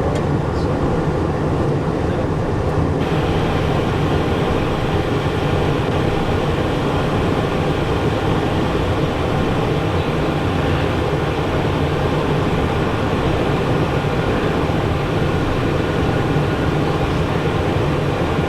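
Steady cockpit noise of a Cessna Citation Encore business jet on final approach, gear down: a constant rush of airflow over the airframe mixed with the hum of its turbofan engines. The hiss grows a little brighter about three seconds in.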